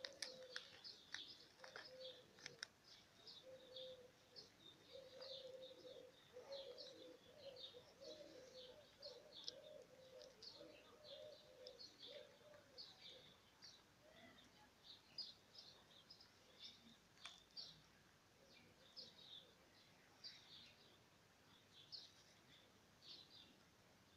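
Faint chirping of small birds: many short, high chirps, several a second, keeping on throughout. A low steady hum runs under the first half.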